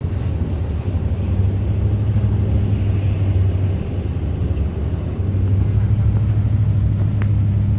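Steady low drone of a car driving, its engine and road noise running evenly, with one sharp click near the end.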